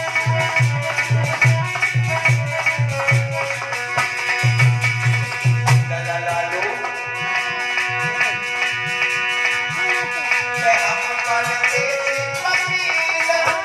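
Devotional music instrumental passage: tabla played in a quick steady rhythm, with bending bass-drum strokes in the middle, under held sustained melody notes; no singing.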